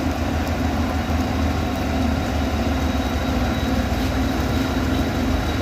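A heavy engine running steadily at an even, low pitch.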